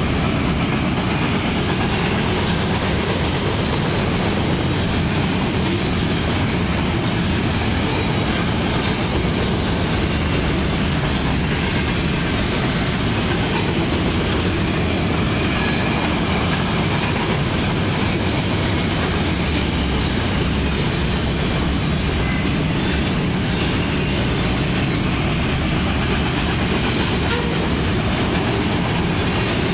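Loaded freight train of flatcars carrying garbage containers rolling past, a steady rolling noise of steel wheels on the rails.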